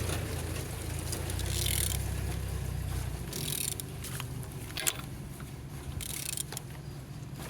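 PSA 1.6 HDi diesel engine (DV6C) being turned over by hand with a wrench on the crankshaft: metallic scraping and clicking, with a hissing swish about two, three and a half and six seconds in and a sharp click near five seconds. The engine turns freely, so it is not seized.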